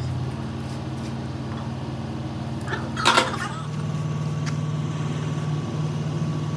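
An engine or machine running steadily with a low hum, with a short loud clatter about three seconds in, after which the hum shifts slightly and a faint steady whine stays on.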